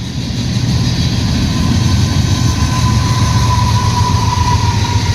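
A freight train's distributed-power (DPU) diesel locomotive passing close, a loud steady engine rumble and rail noise that swells about half a second in. A thin whine drifts slightly lower in pitch through it.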